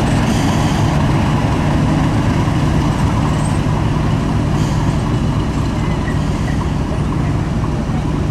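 English Electric diesel locomotive engine running steadily at a constant note, with no revving.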